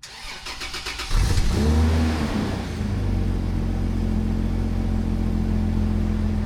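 A 1997 Toyota Land Cruiser engine being started: the starter cranks in a quick even rhythm for about a second, then the engine catches with a loud flare of revs that rises and falls and settles into a steady idle heard through the exhaust.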